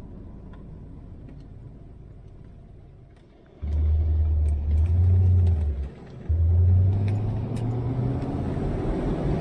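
Corvette V8 running through its freshly repaired exhaust, the leaking donut gaskets replaced: a faint low rumble, then a few seconds in a loud, deep engine drone that cuts out briefly, comes back and rises in pitch.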